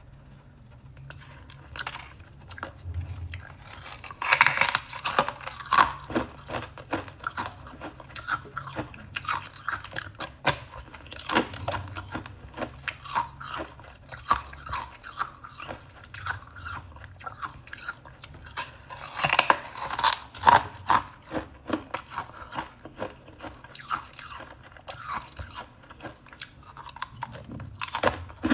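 Close-up crunching and chewing of frost-topped tea crackers: loud crisp bites about four seconds in, again around twenty seconds and near the end, with lighter crackling chewing in between.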